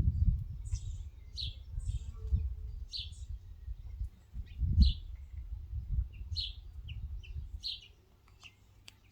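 Birds chirping at a feeder: short high chirps, about one or two a second, over a low rumble that dies away near the end.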